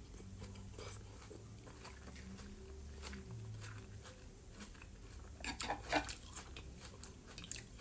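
Close-miked eating sounds: a person chewing a mouthful of fresh vegetable salad, with faint wet mouth clicks. A little past halfway comes a brief cluster of sharper clicks as a fork scrapes food from a bowl.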